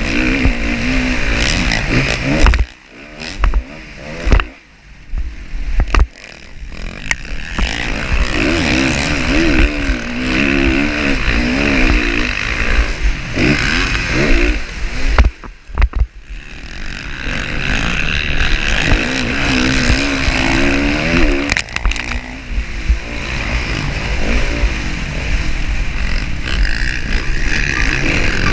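Motocross motorcycle engines running hard, revving up and down through the gears. The throttle is shut off briefly twice, with a few loud thumps around those cuts.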